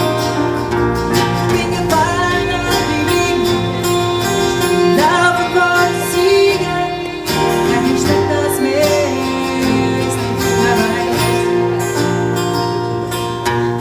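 A live pop band playing, with a woman singing over guitar and a rhythm section; her vocal lines come in about two seconds in and again several times after.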